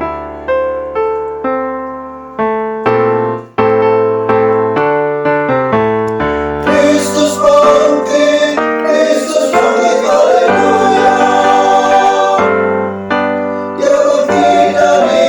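Piano or keyboard playing an interlude of an Easter choir hymn in separate, fading chords. About seven seconds in, the music swells fuller and singing voices join.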